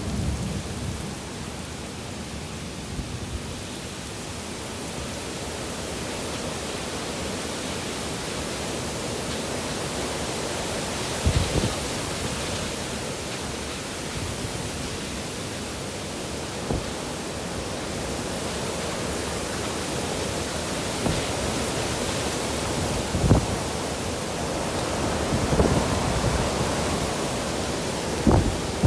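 Heavy storm rain pouring down steadily, a dense hiss of rain, with a couple of brief low thumps.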